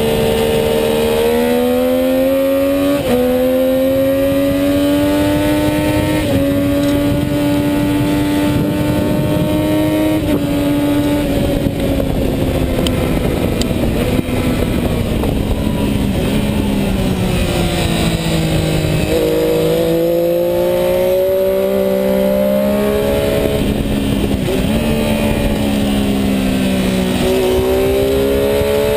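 Sport motorcycle engine at high revs on a racetrack lap, the pitch climbing under acceleration and stepping at gear shifts, with two upshifts in the first few seconds. It then falls away under braking, with sharp jumps in pitch as it is downshifted about two-thirds of the way through and again near the end, under a steady rush of wind noise.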